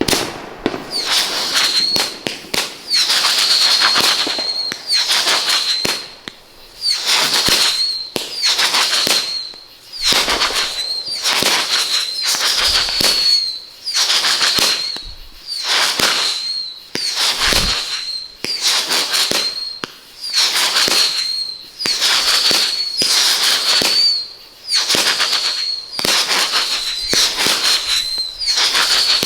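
Firework cake firing whistling shots in steady succession, about one every second and a half, each a high steady whistle with a burst of crackling noise.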